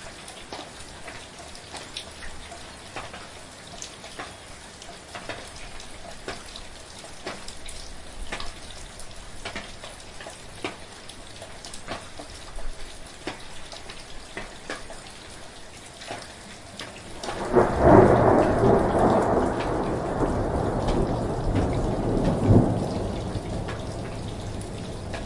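Steady rain with single drops striking close by. About seventeen seconds in, a loud roll of thunder breaks in and rumbles on for several seconds, slowly fading.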